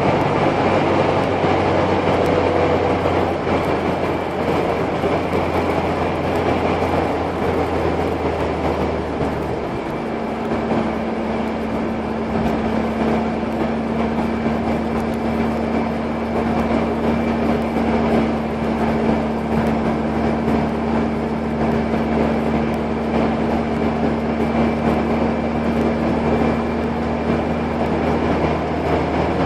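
Car engine and road noise heard from inside the cabin while driving at a steady pace. About ten seconds in, the engine note shifts and a new steady hum sets in.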